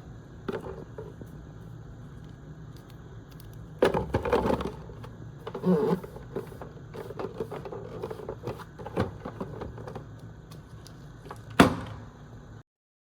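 Scattered knocks and clicks, as of objects being handled, over a steady low hum; the loudest knock comes near the end, just before the sound cuts off.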